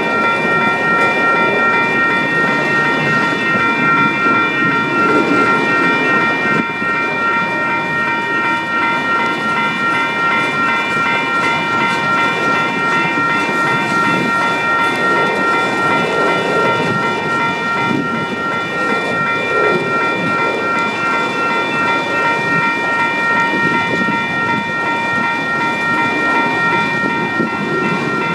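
Empty autorack freight cars rolling past on the rails: a steady, loud rumble with a constant high-pitched ringing over it.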